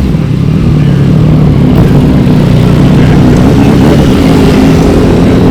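A car engine running loud and close, its pitch drifting slightly up and down.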